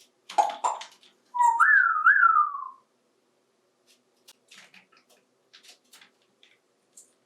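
African grey parrot whistling: a couple of short rough squawks, then one whistle of about a second and a half that rises, wavers over two peaks and slides back down. Faint light clicks follow.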